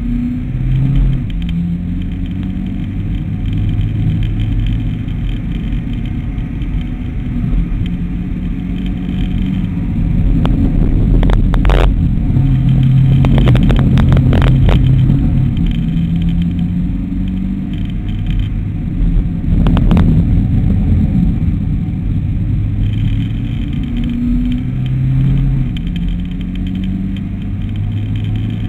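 Mitsubishi ASX engine heard from inside the cabin while it is driven hard around a circuit, its pitch climbing and dropping in steps, over steady road rumble. A few sharp knocks come a little before halfway and again about two-thirds in.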